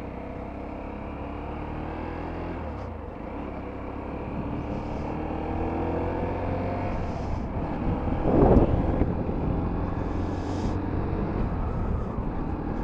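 A 125 cc motorcycle engine running as it is ridden, its pitch gliding gently up and down with speed. A louder rushing swell comes through about eight and a half seconds in.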